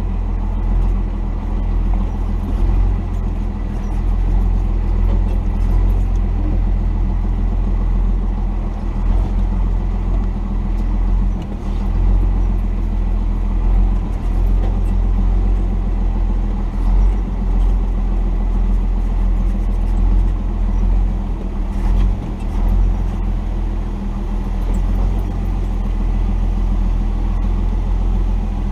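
1990 Dodge D250's Cummins 5.9-litre inline-six turbo-diesel running steadily at low speed, with no sharp changes in pace.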